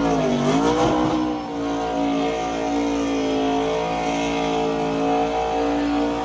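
NASCAR Truck Series V8 engine revving during a burnout. Its pitch dips and rises in the first second and a half, then it is held steady at high revs over a hiss.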